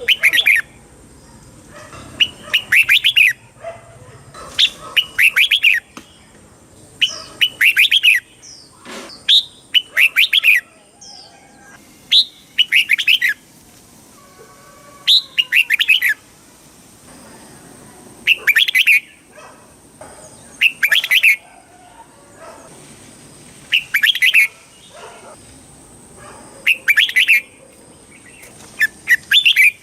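Red-whiskered bulbul singing: short, bright phrases of a few quick warbled notes, repeated every two to three seconds with brief pauses between.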